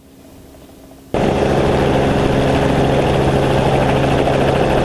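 Helicopter rotor and engine noise heard from aboard the aircraft in flight: a steady, dense hum with a fast rotor pulse. It is faint for about the first second, then comes in suddenly loud and holds steady.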